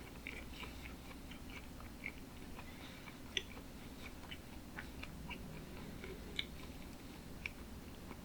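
Close-miked chewing of sushi: soft, irregular wet mouth clicks and smacks, a couple of them louder, over a faint low hum.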